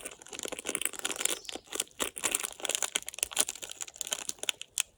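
A plastic food packet crinkling and crackling in a stream of short, irregular crackles as it is handled and worked open; it is hard to get open.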